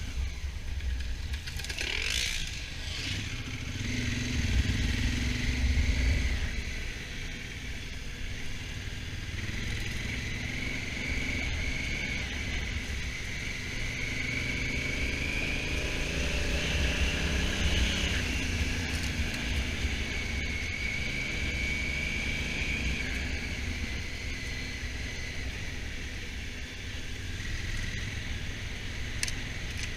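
Honda Africa Twin's twin-cylinder engine running while the bike is ridden, over a steady low rumble. The engine pitch rises and falls slowly with speed, and a brief sweeping sound passes about two seconds in.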